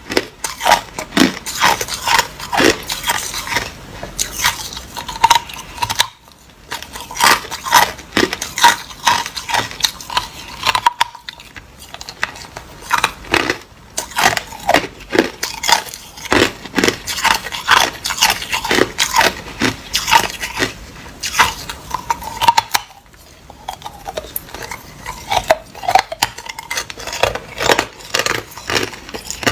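Hard ice being bitten and chewed, close to the microphone: a dense run of sharp cracking crunches, with short pauses about 6, 11 and 23 seconds in.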